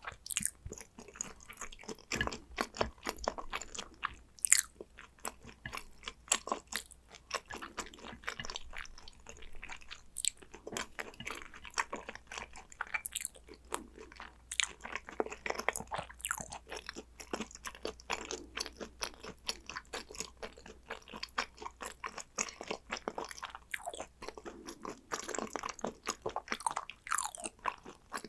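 Close-miked mouth sounds of someone eating hanwoo beef tartare (yukhoe): a continuous, irregular run of wet chewing clicks and smacks with occasional crunches.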